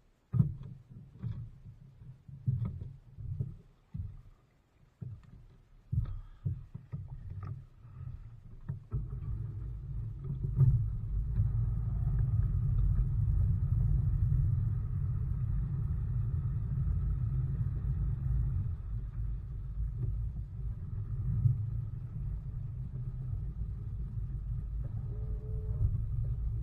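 Bass boat with its newly fitted outboard: irregular low bumps and knocks for the first few seconds, then about nine seconds in a steady low rumble of the boat under way, with a faint whine above it.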